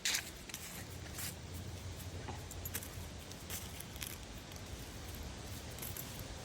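A few irregular crunching footsteps with light rustling, over a steady low rumble.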